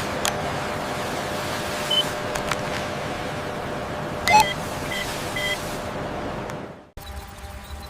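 Steady factory machine noise with a faint hum, broken by several short high electronic beeps in the middle; it fades out near the end and a quieter background takes over.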